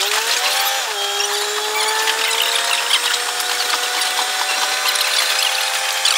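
Diesel railcar running, its sound sped up six times: the raised engine tone glides up, drops sharply about a second in, then rises slowly, over a dense rattle of rapid clicks from the wheels and running gear.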